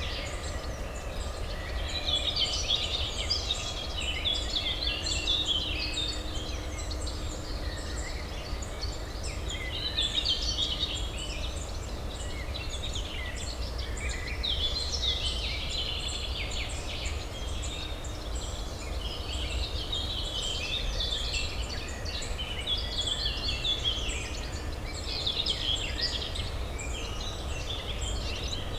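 Many small birds chirping and twittering over one another in a continuous chorus, over a steady low urban hum.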